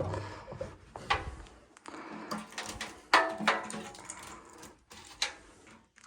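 Several sharp knocks and clicks at irregular intervals, from tools and parts being handled during hand work; the loudest comes about three seconds in.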